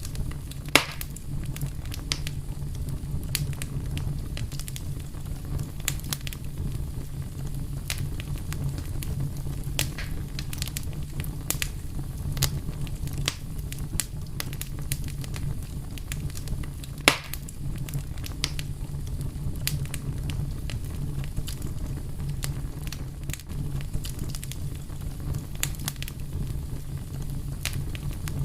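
Fire crackling steadily, with many small sharp pops over a low steady rumble. Two louder pops stand out, about a second in and again about seventeen seconds in.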